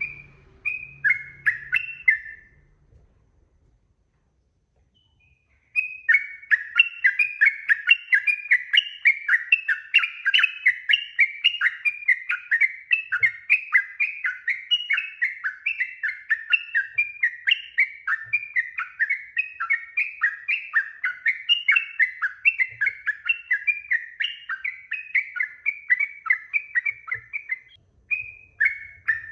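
Yellow-vented bulbul singing: a short burst of bubbly notes, a pause of about three seconds, then a long unbroken run of rapid, rising-and-falling notes, several a second. Near the end there is a brief break before it starts again.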